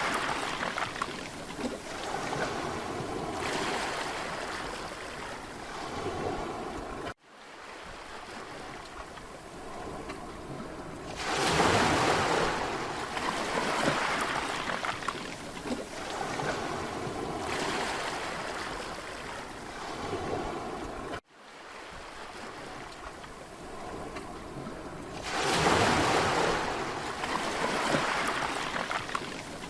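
Mediterranean sea waves breaking on a beach: a steady wash of surf with two big swells, about eleven seconds in and again near the end. The sound cuts out abruptly for an instant twice, about seven and twenty-one seconds in.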